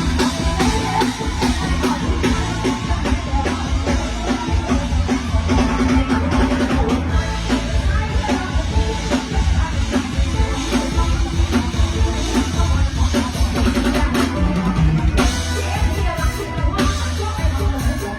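Loud live band music with a driving drum kit and heavy bass drum beat.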